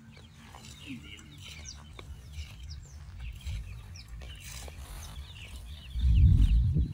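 Small birds chirping in many short, high calls, over an uneven low rumble that swells loudly near the end.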